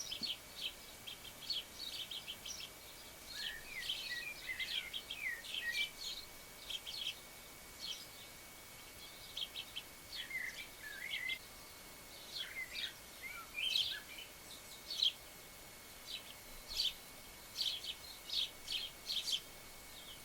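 Small garden birds chirping, with short high calls repeated throughout and a few bursts of lower, warbling twitter.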